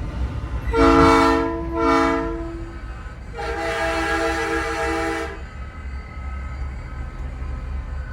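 Nathan Airchime P3 train horn on a big rig sounding a multi-tone chord: two short blasts, then a longer blast of about two seconds, over the low rumble of the truck's engine.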